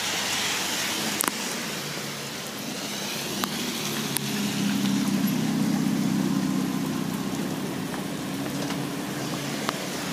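Heavy rain falling steadily, with a few sharp taps of drops close by. A low rumble swells about four seconds in and fades again by about seven.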